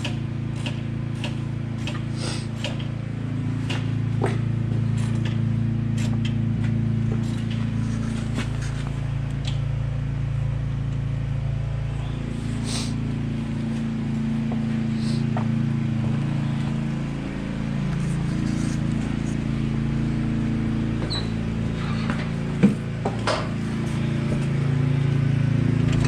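Steady low mechanical drone of a running machine, with scattered clicks and knocks on top.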